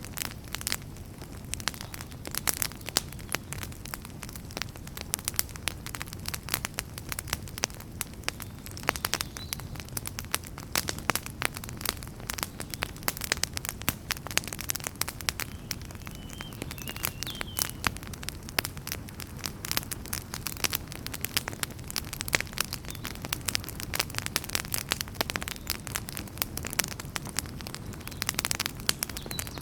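Wood fire crackling in a fireplace: dense, irregular pops and snaps over the low, steady rumble of the flames, with a faint brief whistle about halfway through.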